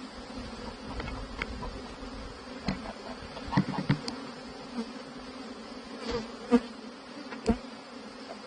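A swarm of honeybees buzzing in a steady drone, with a handful of sharp knocks or taps over it from about halfway through.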